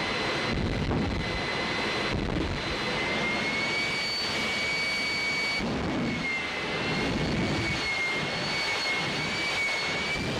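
A jet car's turbine engine running steadily: an even rush of noise with a high whine on top. The whine rises slightly about three seconds in and then wavers a little in pitch.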